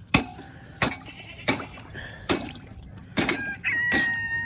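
A rooster crows once near the end, one long call held on a steady pitch. Before it comes a run of sharp knocks, about one every two-thirds of a second.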